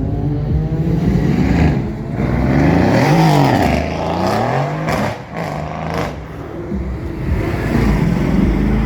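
Car engines running, with one revving hard about three seconds in: its pitch climbs and falls back. A couple of sharp cracks follow a little past halfway.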